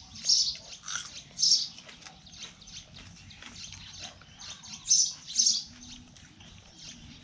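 Small bird chirping: short high chirps about half a second apart, in a group at the start and another about five seconds in.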